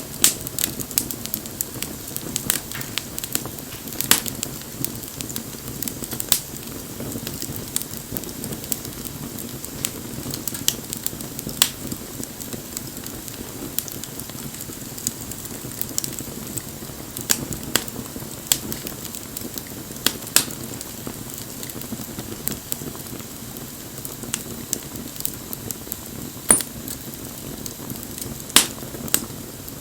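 Bonfire burning, with irregular sharp pops and snaps, a few of them loud, over a steady low rush of flame.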